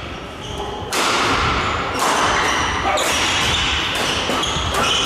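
Badminton doubles rally in a sports hall: sharp racket strikes on the shuttlecock about once a second, starting about a second in, with thuds of footwork and short high squeaks of shoes on the court floor.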